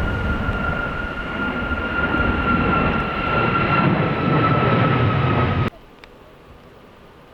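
Jet airliner engines running close by, a loud rumble under a steady whine that slowly falls in pitch, mixed with wind noise; the sound cuts off suddenly about five and a half seconds in.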